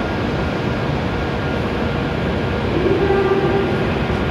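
E7-series Shinkansen train at the platform, barely moving: a steady rumble and hum from the train. A faint droning tone joins it about three seconds in.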